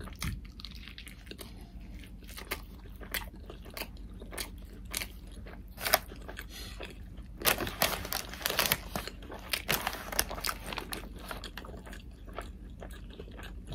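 A person chewing a big mouthful of breakfast burrito (bacon, egg, cheese and hash browns in a flour tortilla), close-miked: wet mouth sounds with many small clicks and crunches. The chewing gets denser and louder about halfway through.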